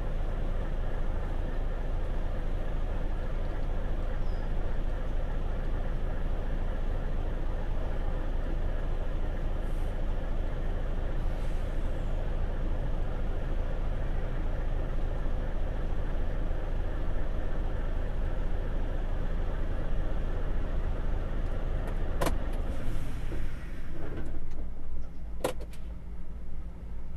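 Steady low engine rumble under a constant noisy hum. Near the end it thins out and becomes uneven, with two sharp clicks.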